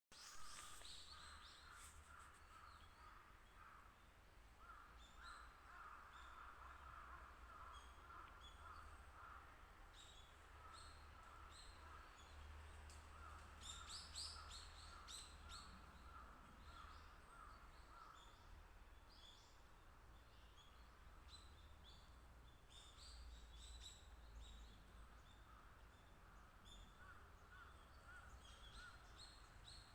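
Faint wild bird calls: runs of quickly repeated mid-pitched notes coming and going, with scattered short high chirps, over a low steady rumble.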